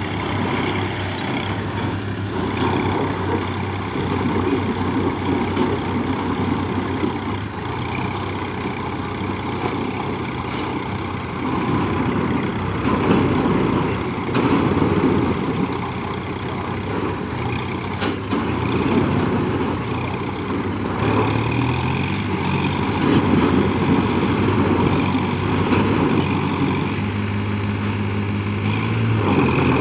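Heavy diesel engines running steadily, growing louder for a few seconds at a time several times, typical of tractors working under load while pulling.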